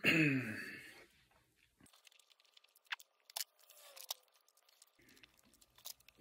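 A person chewing a mouthful of Mike and Ike chewy candies: a brief falling vocal sound in the first second, then faint scattered mouth clicks and crackles.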